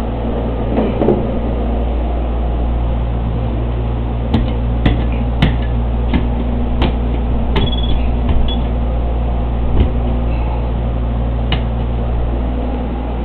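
Steady hum of a running drying fan, with a string of sharp knocks and clicks from about four to ten seconds in as the fan is repositioned by hand.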